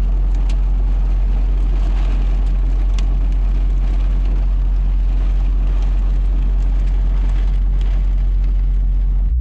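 Heavy rain, with hail by the speaker's reckoning, smacking against a semi truck's cab, heard from inside as a steady rushing patter with scattered sharp ticks. Under it runs the truck's steady low engine hum.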